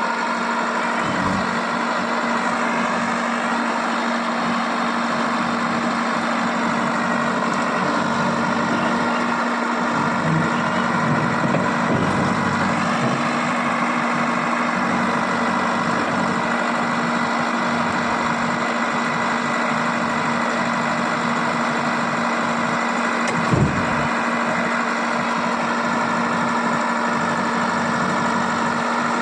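Heavy diesel engine running steadily at a constant speed, with a single short knock late on.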